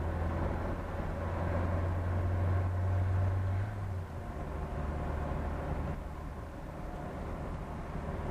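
Turbocharged 3S-GTE four-cylinder engine of a 1994 Toyota Celica GT-Four ST205 running steadily at cruise, heard from inside the cabin over road noise. About four seconds in, the engine note drops and quietens with a gear shift.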